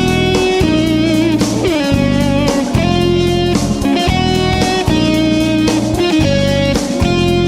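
Jazz fusion track: electric guitar playing a melody of held notes over a bass line, with a wavering note that slides down in pitch about two seconds in.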